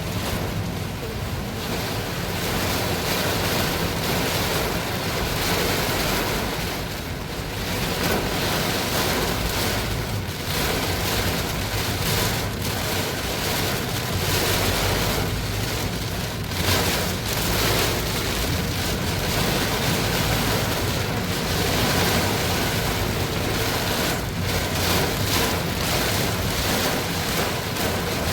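Heavy rain pouring steadily, with strong gusting wind buffeting the microphone in a low rumble that swells and dips.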